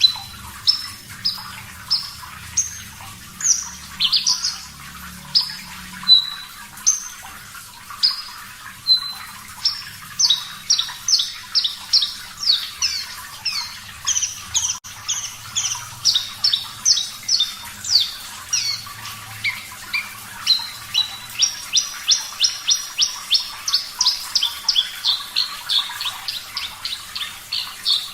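Javan bush lark singing a long string of short, sharp, high notes. The notes come about a second apart at first, then quicken to a rapid run of several a second from about a third of the way in.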